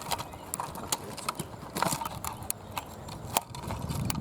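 Twigs and leaves crackling and snapping in irregular sharp clicks as branches of a thick bush are pushed aside by hand.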